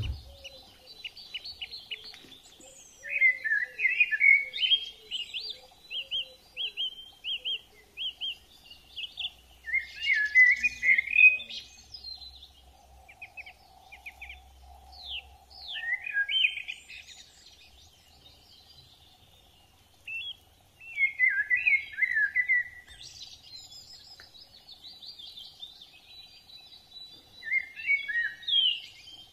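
Birds singing: about five bursts of quick chirping, warbling song a few seconds apart, with a faint steady hum underneath.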